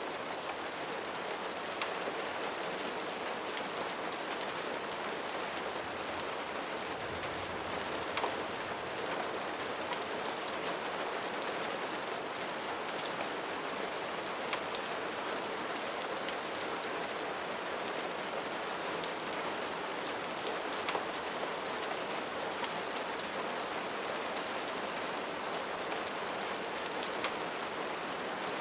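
Steady rain falling on a surface: an even hiss with many scattered sharp ticks.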